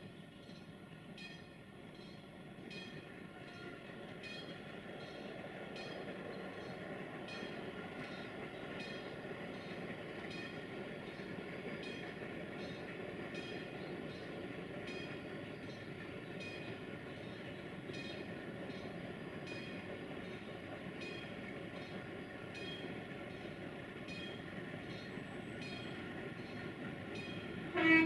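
Approaching freight train hauled by an LE5100 (060-EA) electric locomotive: a steady rumble that slowly grows louder, with faint regular clicking. A short horn blast sounds right at the end.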